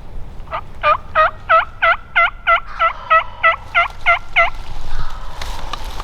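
Wild turkey yelping: a loud run of about thirteen evenly spaced yelps, roughly three a second, that stops about four and a half seconds in, with wind noise after.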